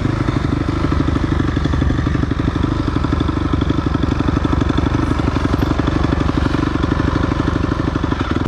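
Single-cylinder 250 cc off-road motorcycle engine running steadily with a fast, even pulse, then cut off abruptly at the end.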